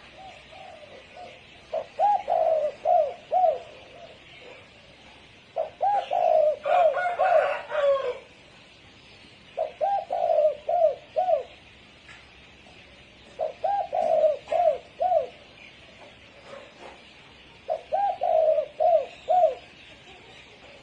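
Spotted dove cooing: five phrases about four seconds apart, each a run of a few short notes.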